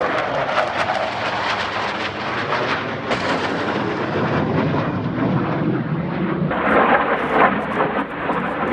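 Loud jet engine noise from a military jet flying past, a dense rumble that swells again a little past the middle.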